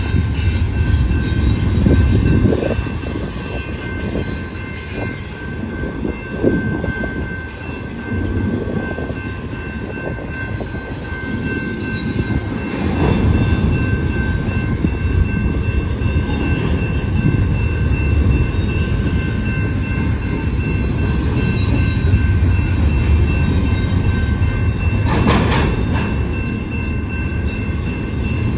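Loaded double-stack container cars of a freight train rolling past at speed: a steady low rumble and clatter of steel wheels on the rails, which eases a little for several seconds early on. Steady high ringing tones run throughout.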